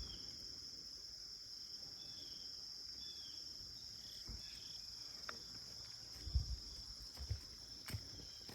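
Steady high-pitched chorus of insects trilling without a break. A few soft footsteps come in the second half.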